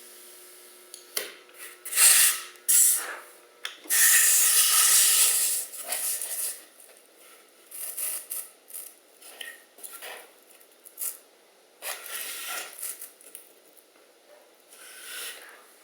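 Styrofoam block being cut on a hot nichrome-wire cutter, giving irregular rubbing and scraping as the foam slides and is worked against the wire frame. There is a long burst about four seconds in, and shorter ones through the rest.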